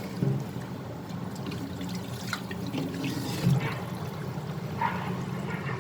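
Water being poured and sloshing in a large cooking pot of raw chicken pieces and rice, with a few light knocks.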